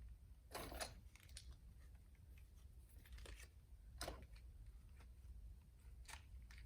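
Faint rustling and crinkling of a plastic poly bag as wrapped parts are slid into it, with a few short scrapes: one about half a second in, one around four seconds, one near the end.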